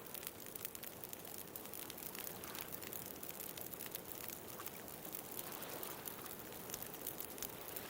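Wood bonfire crackling and popping in frequent sharp snaps over the steady wash of ocean waves.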